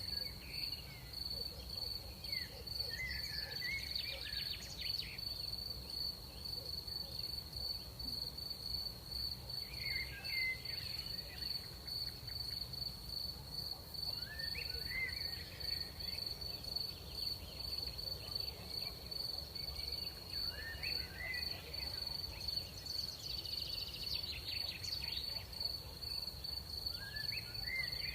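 Crickets at night: one steady, high-pitched trill that never breaks, with short chirping calls coming and going every few seconds over a low background rumble.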